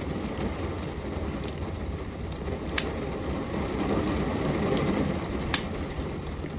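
Steady rain with a wood fire burning, its crackle showing as a few sharp pops over the rain.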